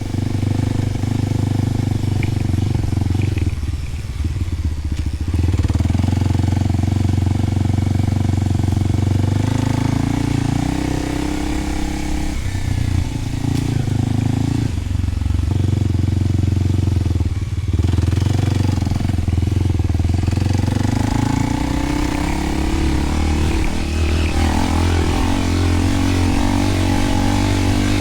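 Kawasaki KLX300's single-cylinder four-stroke engine running through a Delkevic 10-inch oval slip-on exhaust while ridden, the engine note rising and falling with several brief drops where the throttle closes.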